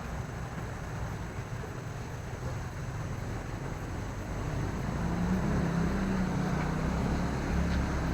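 Low, steady rumble of an engine running, with its hum growing louder about five seconds in.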